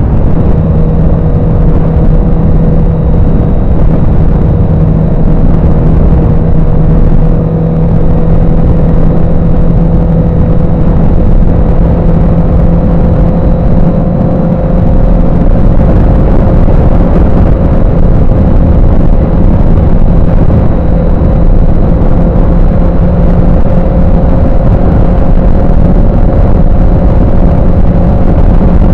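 Heavy wind noise buffeting a microphone inside a full-face motorcycle helmet while riding at speed, over the motorcycle's steady engine drone. The engine pitch sags slightly about seven seconds in, then rises gently.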